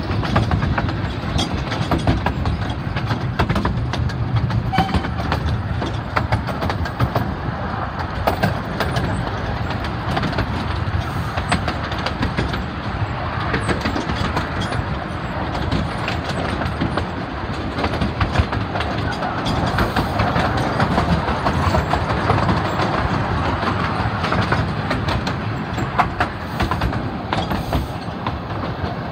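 Miniature-railway carriage running along the track, heard from on board: a steady low rumble with wheels clicking over the rail joints.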